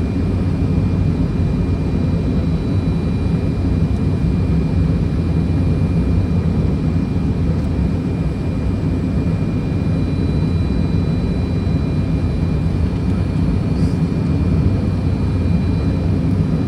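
Steady airflow and engine noise inside a Fokker 100 cockpit on approach: a deep, even rumble with a faint steady high whine above it.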